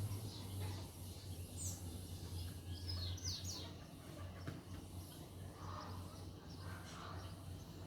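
Small birds chirping with quick falling whistles, over a low distant aircraft drone that fades out after the first few seconds.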